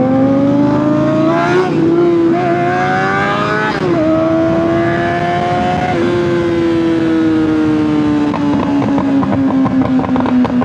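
Honda CBR600RR inline-four sport bike engine under way, revs climbing with quick upshifts about two and four seconds in. After that the revs settle and slowly fall off.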